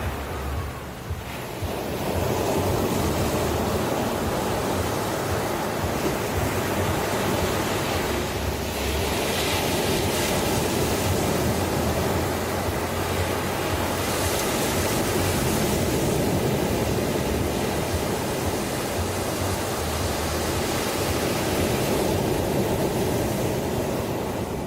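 Ocean surf: a continuous rush of waves breaking and washing in. It swells louder about two seconds in, with hissier surges twice, around nine and fourteen seconds, and eases off near the end.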